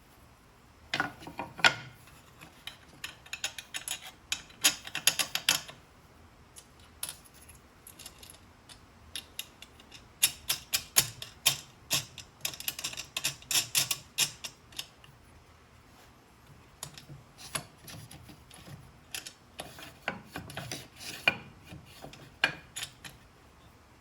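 Clusters of small clicks, taps and rattles of parts being handled and adjusted at a workbench, with quiet gaps between; no saw motor running.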